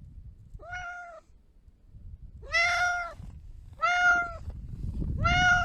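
Domestic cat meowing four times, each call about half a second long and fairly steady in pitch, over a low background rumble.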